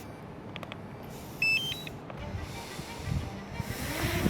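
A short run of electronic beeps stepping up in pitch about a second and a half in. Near the end, a small DJI quadcopter's motors spin up with a rising whine, over low rumble on the microphone.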